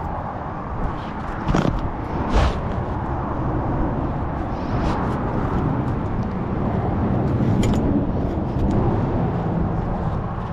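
Road traffic passing, a steady vehicle rumble that swells and fades about two thirds of the way through, with a couple of sharp knocks early on.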